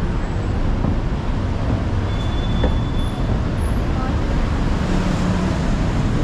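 Steady road traffic noise with a low rumble of vehicles, a short high tone about two seconds in, and a brief low hum around five seconds.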